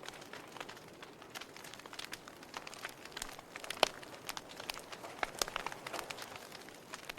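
Wood fire burning in a fireplace, crackling with irregular sharp pops and snaps over a soft hiss, one louder pop a little before the middle.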